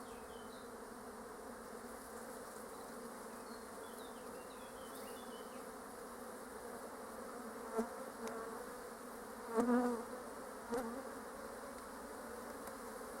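Honeybees buzzing steadily around an open hive, with a few short louder swells about two-thirds of the way through.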